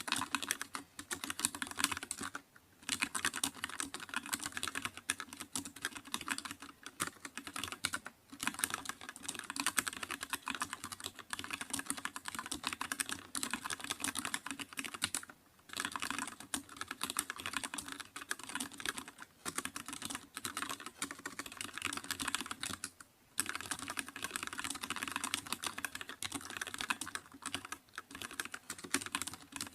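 Continuous fast typing on a computer keyboard: rapid key clicks in long runs, broken by brief pauses every few seconds.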